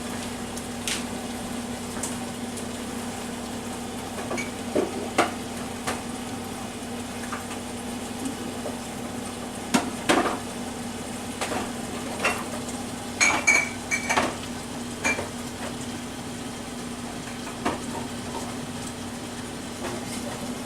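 Kitchen clatter: dishes and utensils clinking and knocking now and then, with a cluster of clinks about ten seconds in and another around thirteen seconds, over a steady hum and the faint sizzle of a stir fry cooking in a covered wok.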